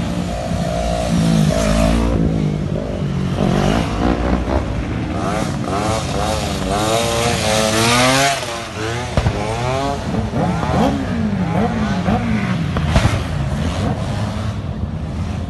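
Car engines revving up and down over and over. About eight seconds in, one rev climbs high and then drops away suddenly.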